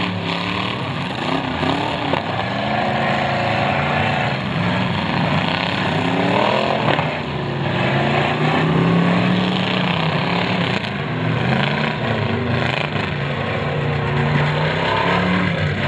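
Several demolition derby cars' engines revving up and down at once, their pitches rising and falling as the drivers accelerate and back off.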